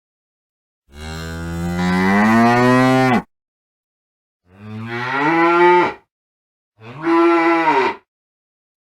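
Cow mooing: three moos, the first a long call rising in pitch, then two shorter ones, with complete silence between them.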